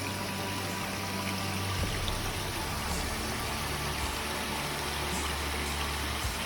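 A small creek flowing, a steady rushing hiss of water over rocks.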